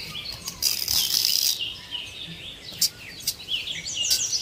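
Small birds chirping in quick series of short, high notes. A brief dry rustling hiss comes about a second in, and there are a few light clicks.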